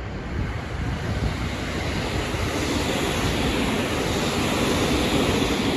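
Electric commuter train passing along the tracks below, its running noise growing louder as it draws near and passes. Wind rumbles on the microphone throughout.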